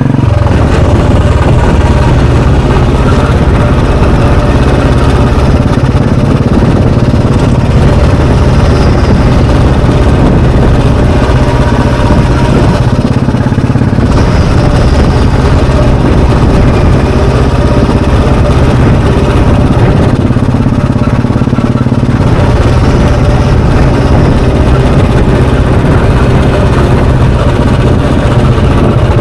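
Royal Enfield Bullet 350's single-cylinder, air-cooled four-stroke engine and exhaust running steadily under a rider, a loud, even engine note with no sharp revving.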